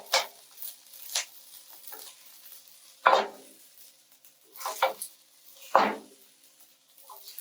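A cooking utensil scraping and knocking against a wok as stir-fried rice is scooped out into a serving bowl: a string of short scrapes a second or so apart, the loudest about three seconds in.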